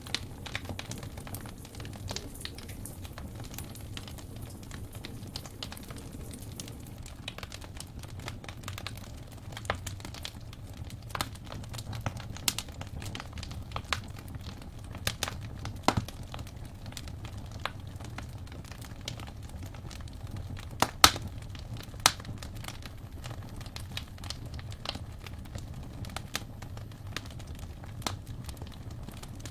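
Wood fire in a fireplace crackling, with irregular sharp pops and snaps over a steady low rumble of flame; a few louder pops come about two-thirds of the way through.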